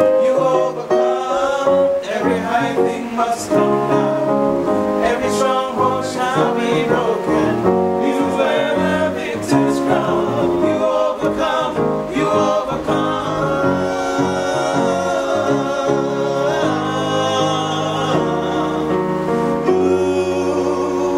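A men's vocal group singing a gospel worship song in harmony, holding chords that change every second or two, with some instrumental backing.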